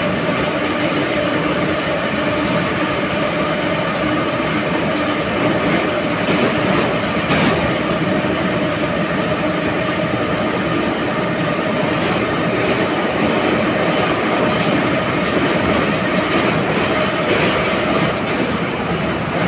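Type 81-717.5 metro car running between stations, heard from inside the car: a steady, loud running noise with a constant hum of several steady tones. There is a single brief click about seven seconds in.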